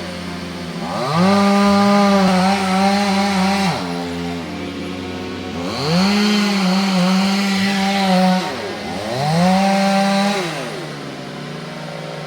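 Chainsaw revving up to full speed three times, holding there for a second or two each time and dropping back to idle between, then idling near the end.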